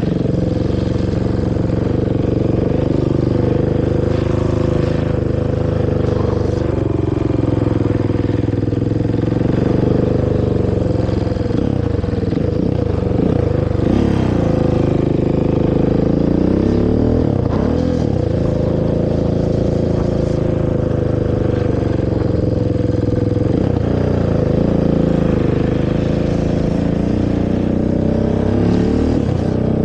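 Honda TRX450 quad's single-cylinder four-stroke engine through its stock exhaust, ridden with the throttle opened and eased off again and again, so the engine note rises and falls repeatedly.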